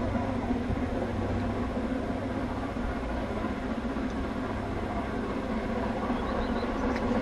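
Steady low rumble and hum of a distant, unseen narrow-gauge train working along the line, with no clear beat.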